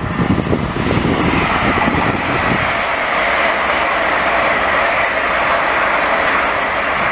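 Electric train passing, with a steady loud noise of wheels on rail.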